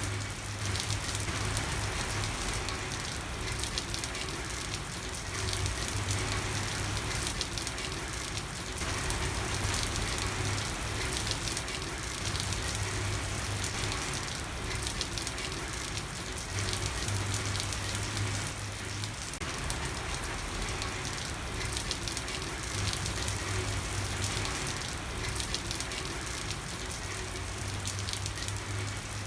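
Steady rain falling on a street, a dense pattering of drops, with a low rumble that swells and fades every few seconds.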